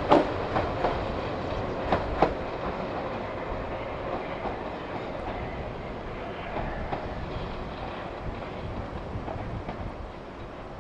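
Train wheels clicking over rail joints as a train passes. The clicks are strongest in the first two seconds, then give way to a steady rumble that fades as the train moves away.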